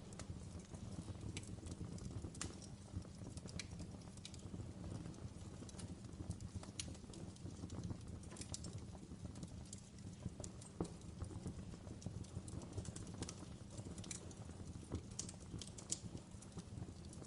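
Fire crackling: irregular sharp pops and snaps scattered over a steady low rumble of the burning.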